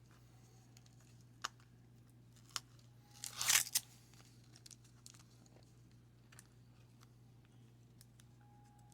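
A wax-paper card pack being torn open: one short tearing crinkle about three and a half seconds in, with a few light clicks and paper rustles around it.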